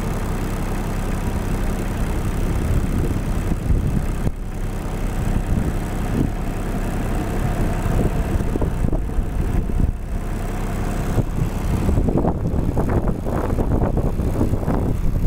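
An engine idling steadily, with wind buffeting the microphone; the gusts grow stronger and more ragged in the second half.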